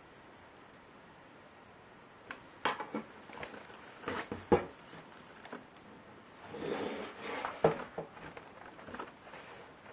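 Handling sounds from work on a Lenovo Y570 laptop: scattered sharp clicks and knocks of its parts, with a short rustle about seven seconds in.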